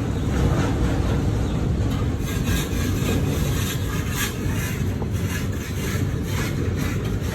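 Kubota M6040SU tractor's diesel engine running steadily with a deep rumble, with some irregular rattling over it from about two to five seconds in.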